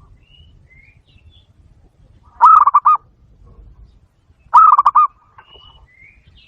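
Zebra dove calling: two loud runs of quick, pulsed cooing notes, about two seconds apart. Faint short chirps of other small birds come in between.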